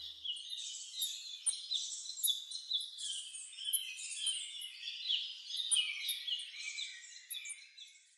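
Small songbirds chirping and twittering, many quick high calls overlapping, thinning out and fading away near the end.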